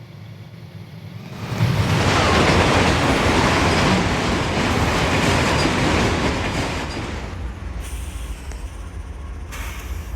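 Freight train rolling by, its rail cars clattering over the track. The sound swells suddenly about a second and a half in and eases off somewhat toward the end.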